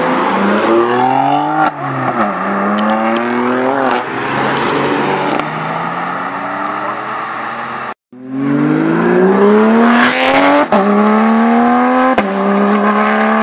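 Supercar engines accelerating hard at full throttle, loud, the pitch climbing and then dropping sharply at each upshift. After a momentary gap about two-thirds of the way in, another full-throttle pull runs up through two more upshifts.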